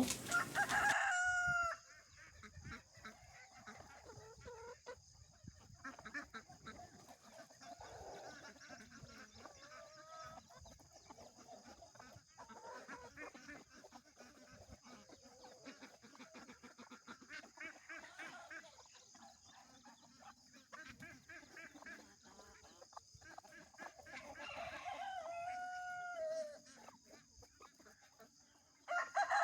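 A rooster crowing twice, once at the start and again about 24 seconds in, each crow a long arching call, with soft hen clucking and scattered bird calls in between. A steady high-pitched hum runs underneath.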